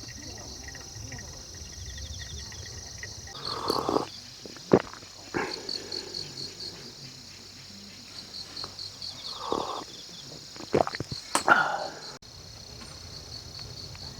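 Insects chirping steadily in high, pulsing trills, with several short knocks and clatters from handled objects; the sharpest knock comes about five seconds in and a burst of clattering comes about eleven seconds in.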